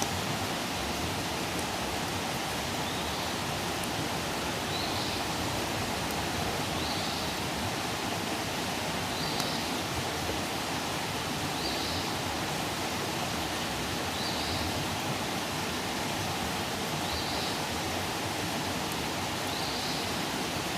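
Outdoor campfire burning with a steady hiss and a few faint crackles. A short high chirp repeats about every two and a half seconds.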